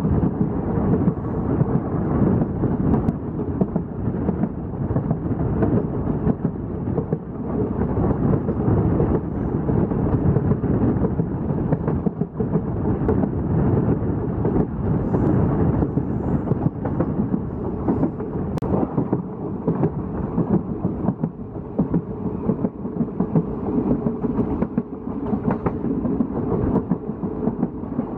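Moving passenger express train heard from an open coach doorway: a loud, steady low rumble of the coaches running over the rails, with a few faint clicks.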